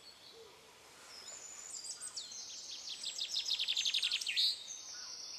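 Birdsong: a songbird sings a fast trill of repeated high notes that builds from about two seconds in and ends with a swooping flourish just after four seconds, with fainter chirps before it.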